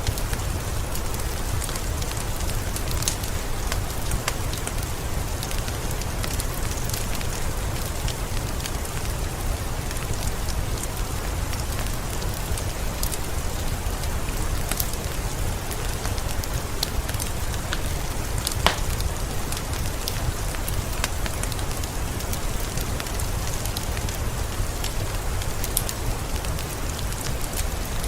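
Heavy rain falling steadily: a dense hiss of rain with a low rumble beneath it and many separate drops ticking close by. One sharper drop click comes about two-thirds of the way through.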